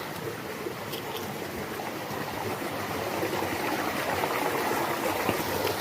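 Flowing stream water, a steady rush that grows a little louder about three seconds in.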